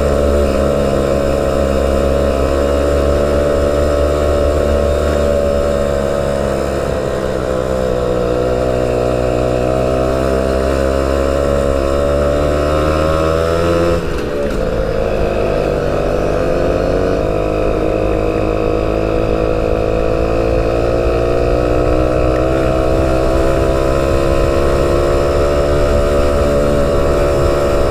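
Motorcycle engine running while riding, its pitch slowly rising and falling with the throttle. The note changes abruptly about halfway through, like a gear change.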